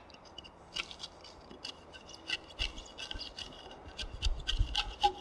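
Chisel paring and scraping wood in a timber mortise: short, irregular cutting strokes, with a few low knocks near the end.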